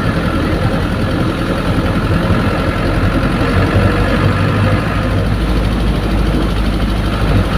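Old bus's diesel engine running steadily with a low drone, heard inside the cabin among the general rattle and road noise of the bus.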